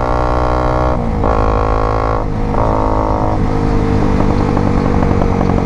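Modified Honda CBR 250 sportbike's engine revving loudly while being ridden. It pulls hard twice with brief dips between the pulls, then runs more steadily near the end.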